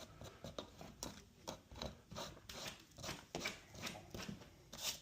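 Claw hammer working nails out of wood: faint, irregular scraping and small clicks.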